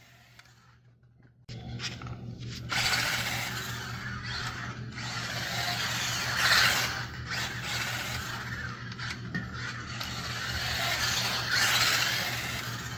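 Small brushed-motor 1/24-scale RC short course truck driving, its motor and plastic gears whirring and the sound swelling and dipping as the throttle changes; it starts about a second and a half in.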